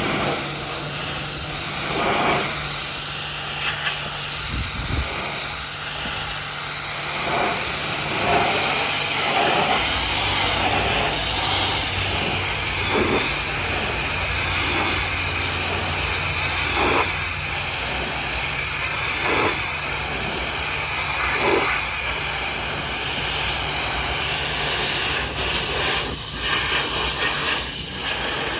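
Pressure washer spraying a high-pressure water jet against a truck, a steady loud hiss with a low steady hum underneath.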